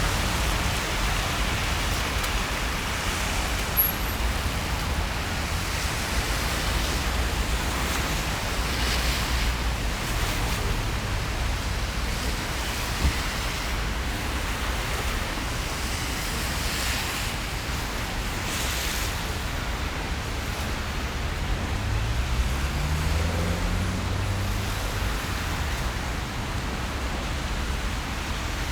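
Steady hiss of rain over the low rumble of city traffic on wet streets. Around two-thirds of the way through, one vehicle's engine rises in pitch as it pulls away.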